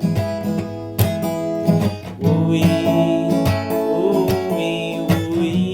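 Acoustic guitar strummed in time with a sung 'ooh-wee' refrain: a song with guitar accompaniment.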